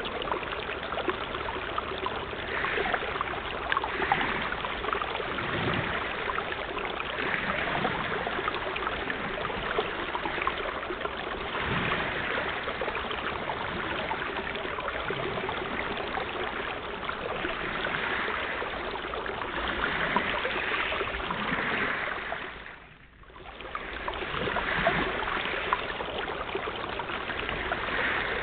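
Sea water washing and splashing: a steady rush that swells every couple of seconds, with an occasional low thud. The sound dips briefly and comes back about four-fifths of the way through.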